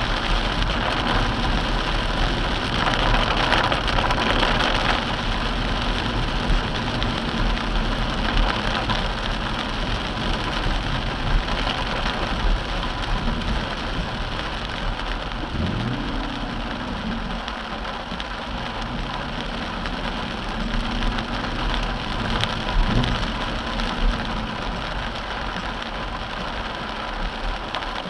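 Heavy rain pelting the car's roof and windshield, heard from inside the cabin as a dense, steady hiss. Under it the car's engine runs, its low pitch rising and falling a few times in the second half.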